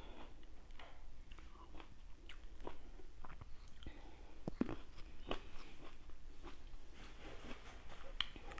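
Close-up mouth sounds of someone chewing and biting fresh fruit: irregular wet clicks and smacks, over a low steady hum.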